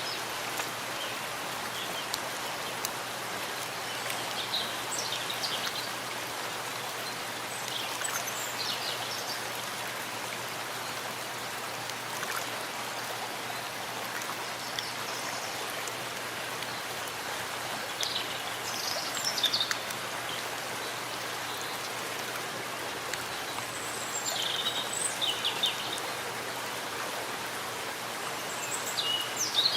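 Steady rain falling in a forest, an even hiss of drops. Short high bird calls come through it every few seconds.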